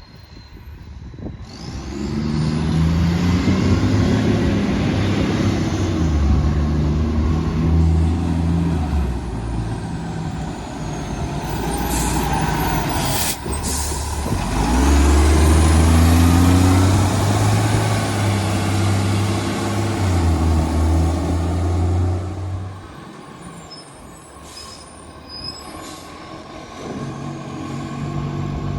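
Garbage truck's diesel engine revving hard and changing gear, its pitch climbing and dropping several times, with the harsh note of a massive exhaust leak. A short air-brake hiss comes about halfway through, and the engine falls quieter for a few seconds near the end before picking up again.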